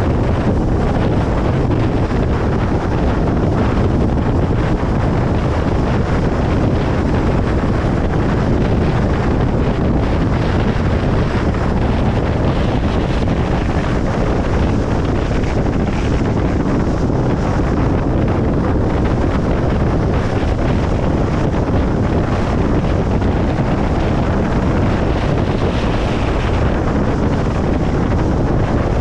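Steady road noise of a car driving on a motorway: an even, unbroken rush of tyre and wind noise, heaviest in the low range.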